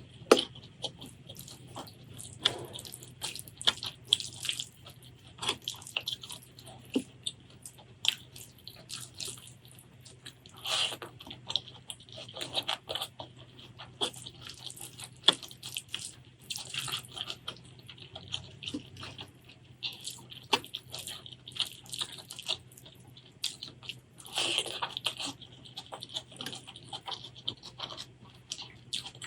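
Close-miked eating sounds: wet chewing, lip smacks and mouth clicks throughout, with two longer wet stretches, about 11 and 24 seconds in.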